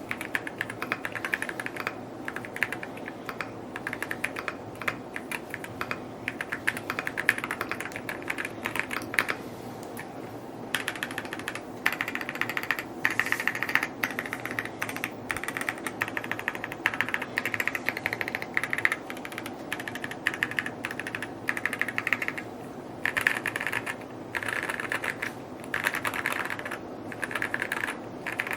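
Typing on a Rainy75 mechanical keyboard: runs of rapid keystrokes in bursts, with short pauses between them.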